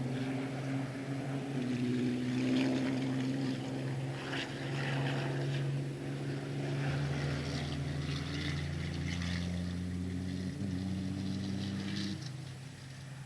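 Formula Truck racing trucks' diesel engines running on the circuit: a steady drone whose pitch steps a few times. A deeper tone joins about seven seconds in, and the drone falls away near the end.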